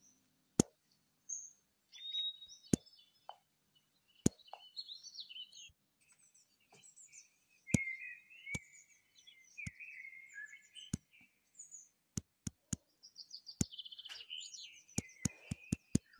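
A bird chirping in irregular, twittering phrases, mixed with sharp clicks that come in a quick run near the end.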